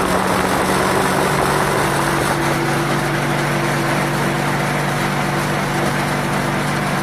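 Four-stroke lawnmower engine of a small homemade single-seater car running steadily under load at the car's top speed of about 17 mph, an even engine tone over a steady rushing noise.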